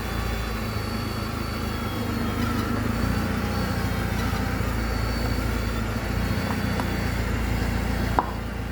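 Mercedes-Benz A160's four-cylinder engine idling steadily, with a single sharp click about eight seconds in.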